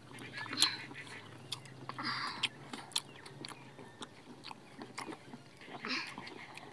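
People eating rice and egg curry by hand: chewing with many short mouth clicks and smacks, and fingers working rice on steel plates.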